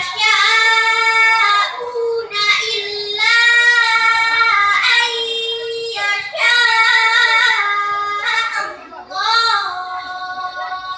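A young girl reciting the Quran from memory in a melodic, sung style, drawing out long held notes in about five phrases with short breaks between them.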